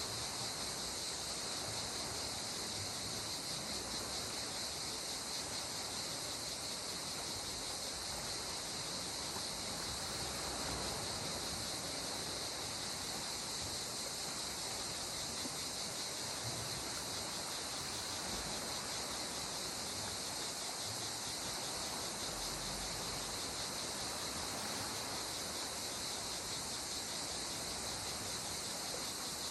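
Steady high-pitched chirring of insects, even and unbroken, over a soft, constant wash of sea water.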